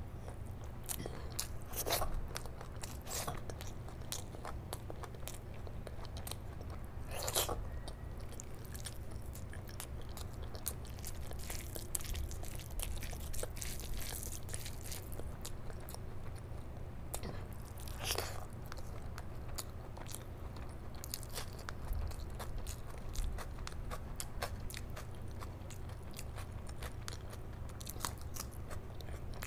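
Close-miked chewing and wet mouth sounds of someone eating curry-soaked rice by hand, with many small clicks and a few louder bites, over a steady low hum.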